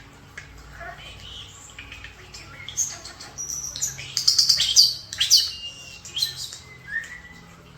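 Pet European starlings and a cockatiel chirping and whistling: a quick, varied string of chirps, clicks and whistles that builds to its loudest a little past the middle, then a short whistle near the end.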